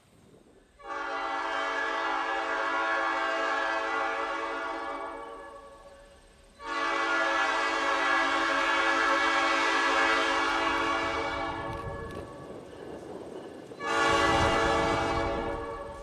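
Diesel locomotive's multi-chime air horn sounding two long blasts and then a short one, the opening of the long-long-short-long grade-crossing signal. A low rumble of the locomotive rises beneath the short blast.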